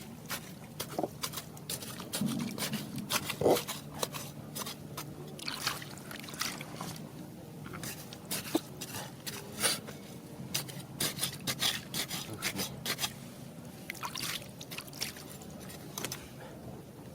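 Stones and gravel clicking and scraping against each other in water, with water trickling, over a faint steady low hum.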